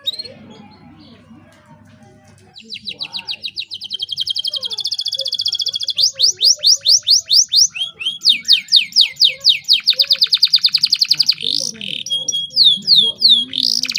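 Canary singing: after a couple of quiet seconds, long rapid trills of repeated high notes, in runs that change pattern roughly every two seconds, with a few slower, separate notes near the end.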